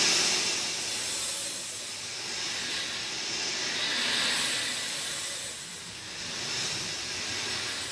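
Steady rain falling: an even hiss that swells and eases every few seconds.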